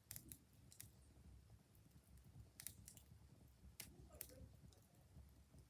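Fire crackling faintly, with scattered irregular pops over a low rumble.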